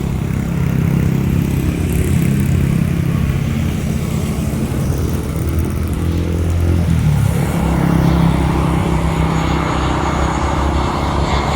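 Engines running steadily with a low hum. About seven seconds in the pitch shifts, as if one passes by, and a broader rushing noise then builds up.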